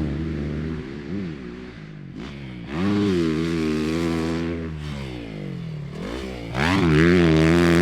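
Dirt bike engine revving on a motocross track, its pitch climbing and dropping repeatedly as the throttle is worked, with two loud surges, about three seconds in and near the end.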